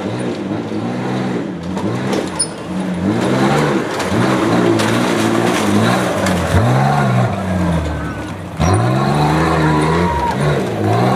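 Tuff truck's engine revving hard, its pitch rising and falling again and again as the throttle is worked over the off-road course, with a brief sudden drop about two-thirds of the way through.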